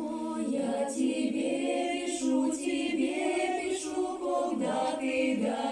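Choir singing a cappella, several voices holding long, overlapping notes with sharp s-sounds on the words.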